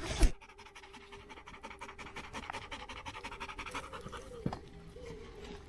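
A dog panting rapidly and steadily close to the microphone, after a brief loud thump at the very start.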